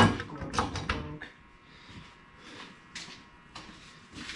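A sharp metallic knock, then a few quick clicks and lighter clanks of hand tools and parts being handled on a rear differential during backlash adjustment.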